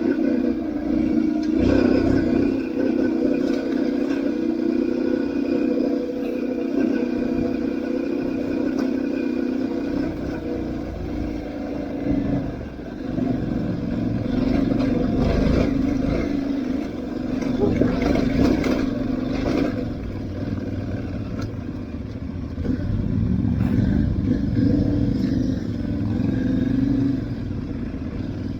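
Aprilia Tuareg 660 parallel-twin motorcycle engine running under way off-road, its pitch rising and falling with the throttle, with scattered knocks and rattles from the rough ground.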